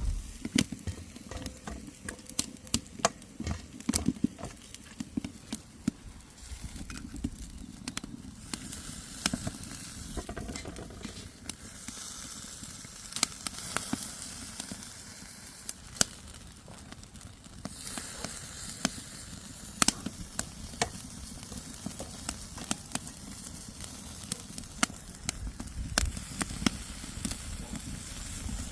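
Food frying in a pan over a wood fire: a steady sizzle with many sharp pops and crackles, the hiss swelling twice.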